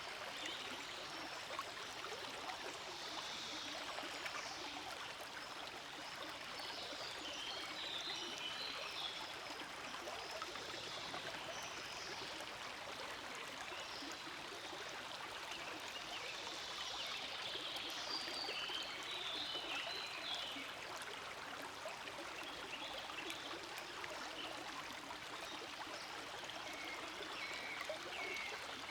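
Small forest stream flowing, a steady rush of water with brighter trickling and bubbling that rises and falls at times.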